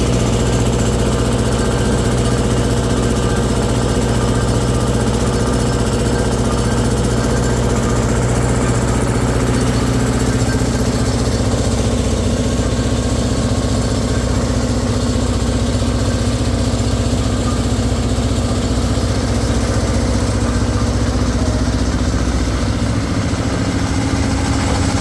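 An engine running steadily at an even speed, with only a slight change in its lowest note near the end.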